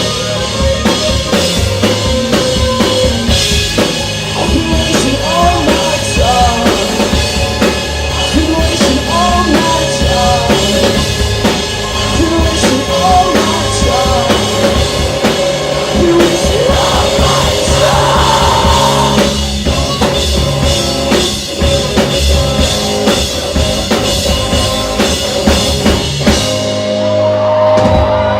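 Live rock band playing an instrumental passage at full volume: drum kit, distorted electric guitars and bass. Near the end the drums drop out and sustained guitar and bass notes ring on.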